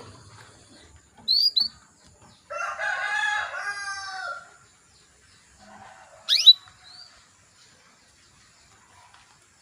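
Female canary calling: two short, sharp chirps about a second in and a loud, quick upward-sweeping call past the middle. Between them a rooster crows for about two seconds in the background.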